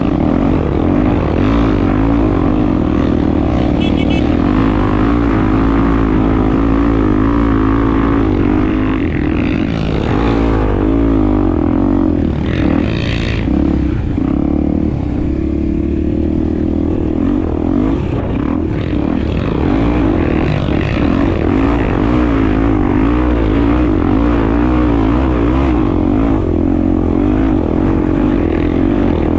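Honda Tornado 250's single-cylinder four-stroke engine running while riding, its pitch rising and falling with the throttle, over a steady rumble.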